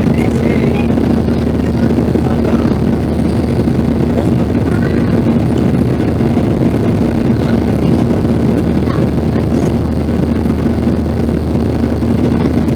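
Steady jet engine noise inside the cabin of a Boeing 737-800, its CFM56 turbofans running evenly with a constant low hum over a rushing noise.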